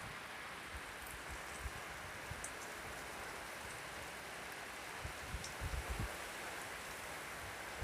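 Heavy rain falling steadily, an even hiss throughout, with a few brief low rumbles about five to six seconds in.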